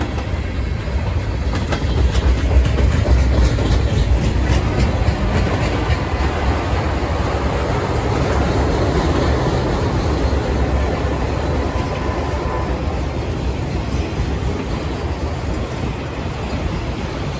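Freight train rolling past: a steady rumble of tank cars and flatcars loaded with railroad ties, with the clickety-clack of wheels over the rail joints.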